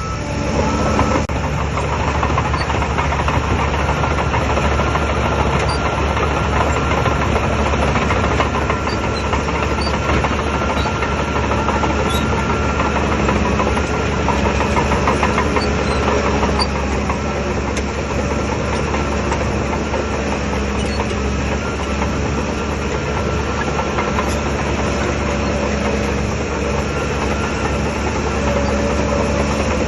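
Shantui DH17 bulldozer's diesel engine running steadily.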